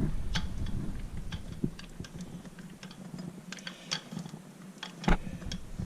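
Scattered light clicks and taps of plumbing fittings being handled, with one sharper click about five seconds in.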